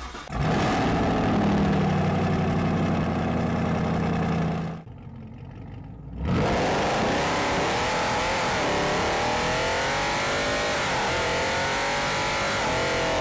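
Car engine running loudly with a steady drone for about four seconds, then, after a brief quieter gap, revving with its pitch rising and falling.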